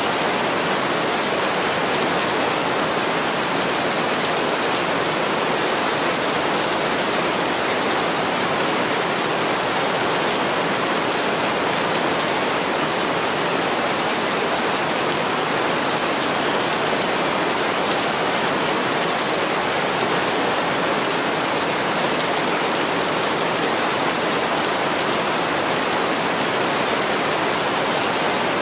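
Heavy rain pouring steadily on a window: a dense, even hiss that does not let up.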